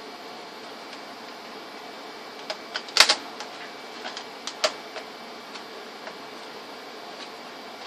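A handful of short, sharp clicks and taps of small hard objects, the loudest about three seconds in, over a steady hiss.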